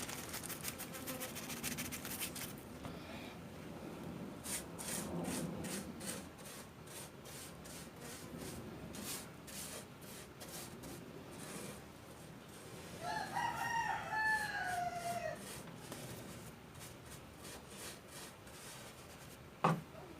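A rooster crows once, for about two and a half seconds, its pitch falling at the end, over repeated rubbing or scrubbing strokes as fine dust is cleaned out of an egg incubator.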